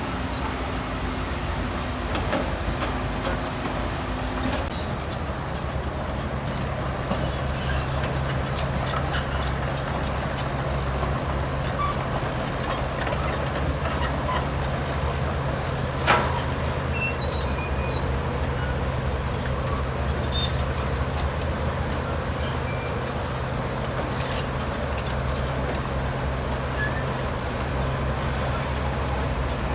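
A heavy diesel construction machine's engine running steadily at a low, even pitch, with scattered faint clicks and one sharp knock about halfway through.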